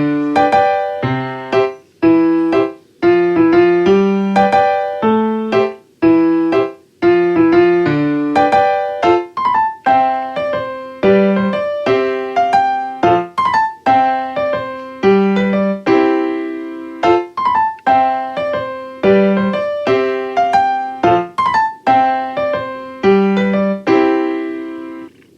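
Background music: a piano or electric piano playing a steady run of single struck notes, each ringing and fading, with a regular pulse.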